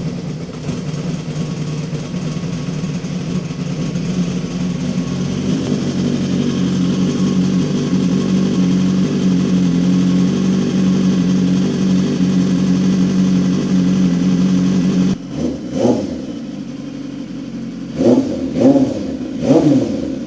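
BMW S1000RR inline-four with an SC-Project CRT slip-on exhaust running at a steady fast idle on a cold start. About fifteen seconds in the idle drops, and a few short throttle blips follow.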